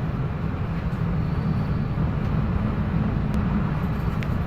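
Wind buffeting the microphone in a storm: a steady low rumble with a hiss of noise above it.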